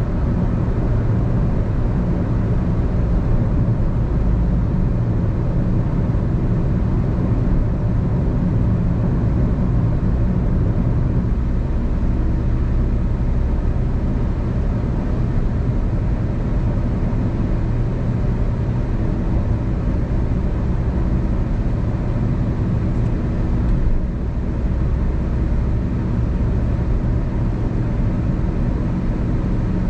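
Steady low drone of a car travelling at freeway speed: tyre and road noise with engine hum, unbroken throughout.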